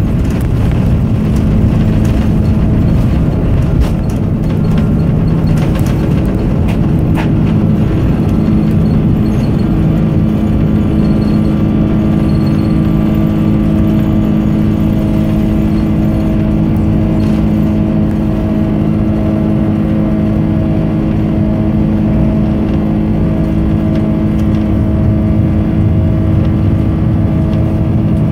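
Airbus A330-200 jet engines running at high thrust, heard from inside the cabin: a loud, steady rumble with a constant droning hum.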